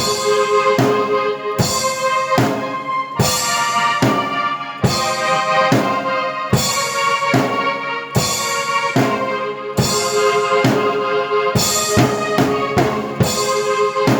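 Drum kit and keyboard playing together: a steady rock beat with kick and snare under held keyboard chords.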